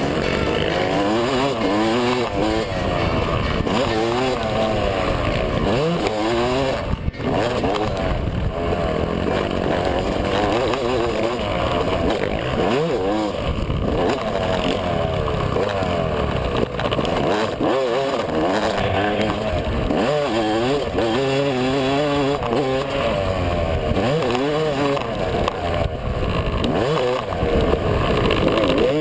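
2010 Yamaha YZ250 two-stroke motocross engine being ridden hard, its revs rising and falling again and again through acceleration and throttle chops, with a momentary drop in sound about seven seconds in.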